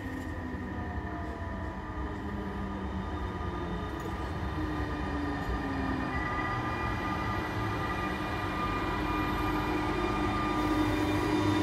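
SBB Re 460 electric locomotive hauling Einheitswagen coaches, rolling slowly along the platform toward the listener with a low rumble and several steady electric whining tones, growing louder as it draws near.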